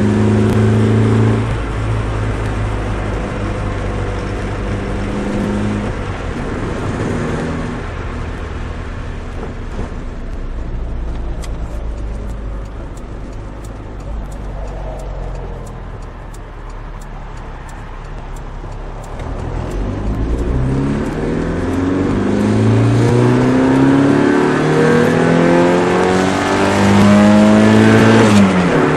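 Nissan Micra 1.3's engine through a custom exhaust, with a droning note. It holds a steady note at first, dies down a quarter of the way in, then revs climb steadily for several seconds before dropping off sharply near the end.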